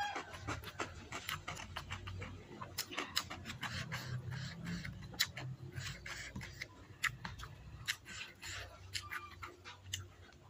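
Close-up mouth sounds of someone chewing a mouthful of rice and stir-fried water spinach: irregular wet clicks and smacks, several a second.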